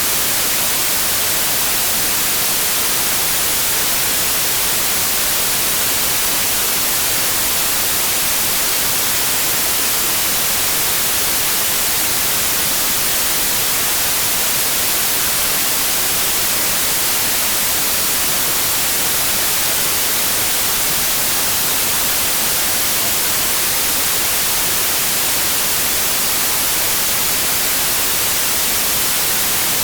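Steady white noise: an even hiss, strongest in the highest pitches, holding constant without any change.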